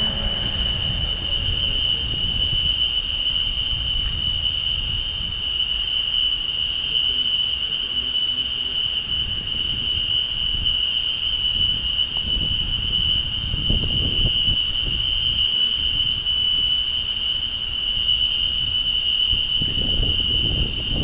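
A continuous shrill trill of insects, likely crickets, holding one steady high pitch, over an uneven low rumble of wind or handling noise.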